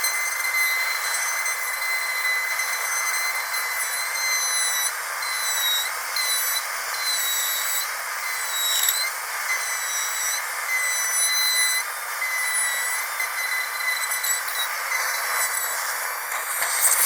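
High-speed dental drill whining steadily at a high pitch over a hiss, the whine dipping briefly in pitch a few times. A louder hissing burst comes near the end.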